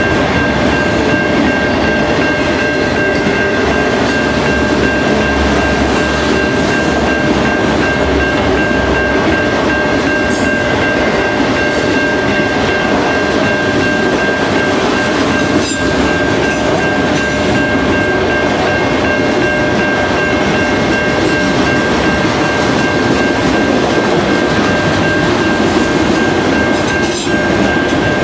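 Freight train of autorack cars rolling past close by: a loud, steady rumble of wheels and cars on the rails, with a steady high-pitched tone over it throughout.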